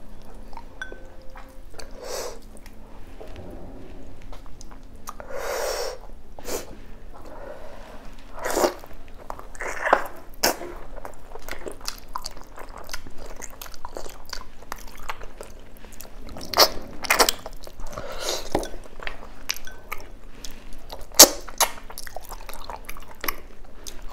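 Close-up chewing and mouth sounds of someone eating boiled beef oxtail meat by hand, with many short, sharp smacks and clicks scattered throughout and one especially sharp smack near the end.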